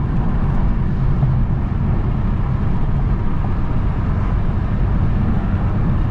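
Steady low drone of road and engine noise inside a Honda Civic Type R cruising on the freeway.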